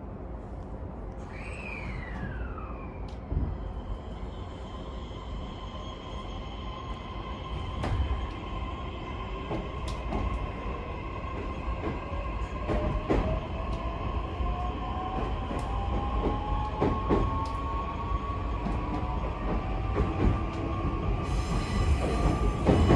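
JR East E131-1000 series electric train pulling away, heard from inside: a short falling tone about a second and a half in, then the traction motors' whine rising slowly in pitch as it accelerates, over a steady rumble with scattered rail-joint clicks.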